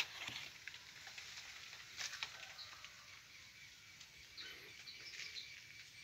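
Quiet outdoor background with a few faint, short bird chirps about four to five seconds in, and a couple of soft clicks.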